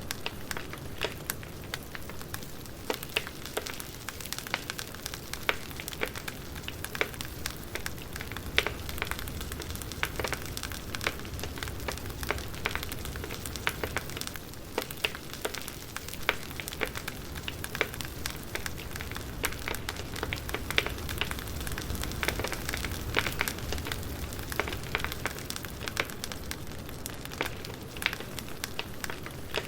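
Wood fire crackling: irregular sharp pops and snaps over a steady low rumble and hiss of burning logs.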